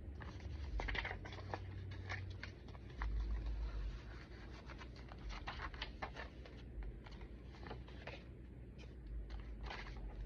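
Paper pages of a chunky handmade junk journal rustling and scratching as they are handled, with a few low bumps, the loudest about three seconds in.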